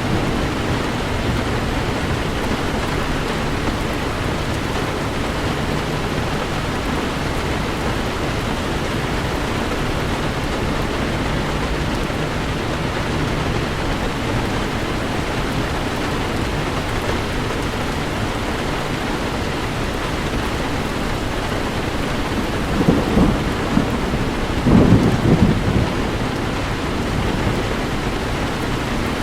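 Heavy rain falling on a car in a steady hiss, with two low rumbles of thunder swelling up about 23 and 25 seconds in.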